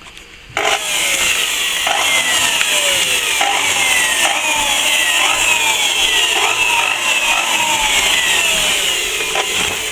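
Power tool cutting into solid plaster to open up a crack for repair, running steadily with its pitch repeatedly sagging and recovering as it is pressed into the wall.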